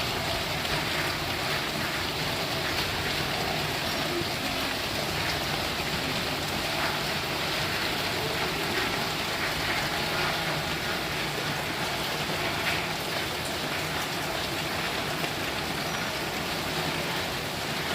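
Steady rainfall, with a few individual drops ticking out now and then.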